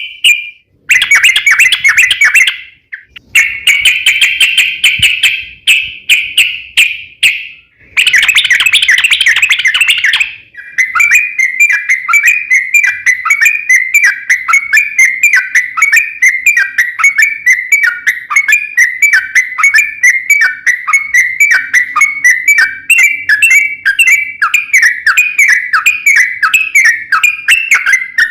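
Sooty-headed bulbul (trucuk) song: fast, chattering runs of repeated notes. Several short bursts are broken by brief pauses, then from about ten seconds in comes one long, unbroken rapid trill.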